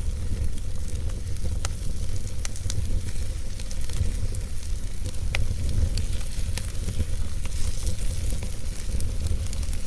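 Fireplace fire crackling, with scattered sharp pops and snaps over a steady low rumble and hiss of the flames.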